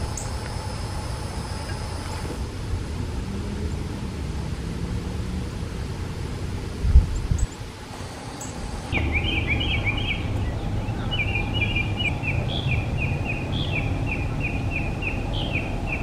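Steady low outdoor rumble with a short thump about seven seconds in. In the second half a bird calls over it with a quick run of short, high, repeated notes, about three a second.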